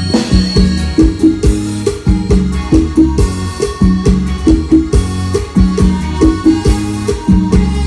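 Thai procession band (khana hae) playing amplified music through a sound system: drums keep a fast, steady beat over bass notes and melody.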